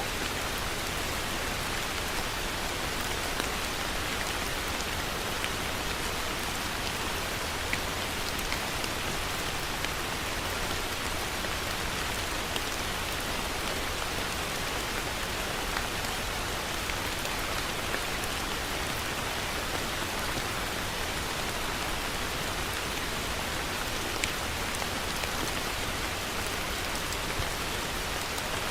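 Heavy rain falling steadily: a dense, even hiss of rain with scattered sharper drop impacts.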